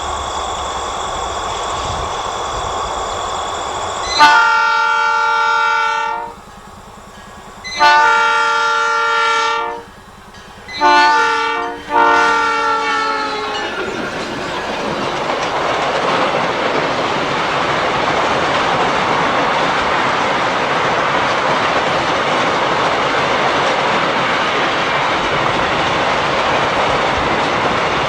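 Freight locomotive's multi-tone air horn sounding the grade-crossing signal: two long blasts, a short one and a final long one, starting about four seconds in. Then the steady rumble and clatter of the freight train rolling past.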